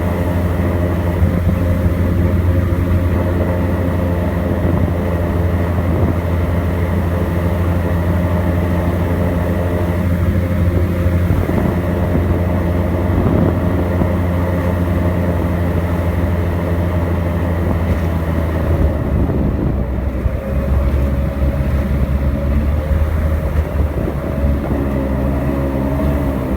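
Airboat's engine and air propeller running loud and steady. The note eases off about two-thirds of the way in and climbs again near the end as the throttle is opened.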